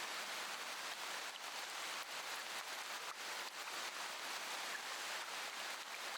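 Steady rain falling: an even hiss with a faint patter of scattered drops.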